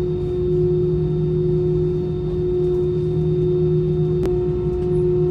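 Steady hum inside an airliner cabin: a constant droning tone over a low rumble, with a single sharp click about four seconds in.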